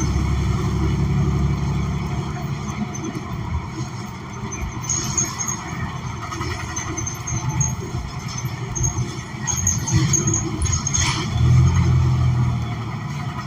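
Inside a 2016 New Flyer XN40 city bus under way: the Cummins Westport ISL G natural-gas engine drones steadily, growing louder for a stretch near the end, with short interior rattles now and then.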